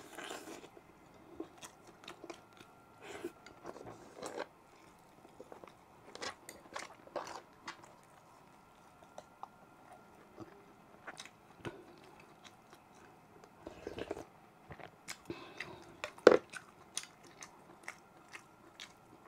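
Close-miked mouth sounds of someone eating beef and rice by hand: chewing with wet lip smacks and short, irregular clicks, and one sharp, louder click about three-quarters of the way through.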